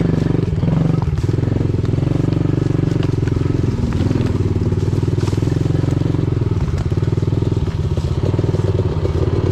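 Pit bike engine running at a fairly steady speed, with small shifts in engine speed about a second in and again around four seconds in.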